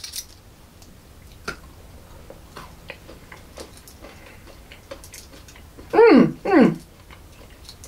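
Chewing a milk chocolate egg with crunchy Coco Pops pieces in it: faint, scattered wet clicks and crunches from the mouth. About six seconds in, two short vocal sounds, each falling in pitch.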